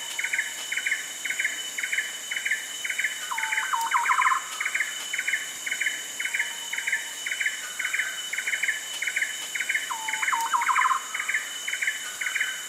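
Rainforest chorus: a steady high insect drone under a short call repeated about two or three times a second. Twice, a lower quick run of rising notes breaks in.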